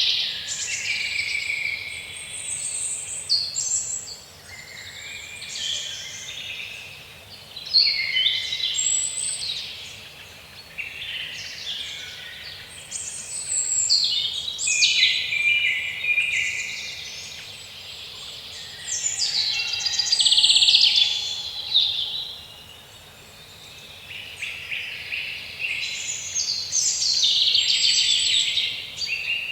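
Songbirds singing: a dense, high-pitched chorus of overlapping chirps and trills that swells and fades every few seconds.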